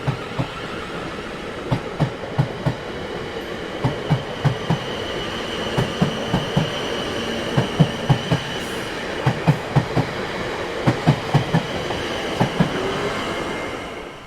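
Train rolling along the track: a steady rumble with the clickety-clack of wheels crossing rail joints, in quick groups of two or three clicks every second or two, and a faint high steady squeal over it. The sound falls away near the end.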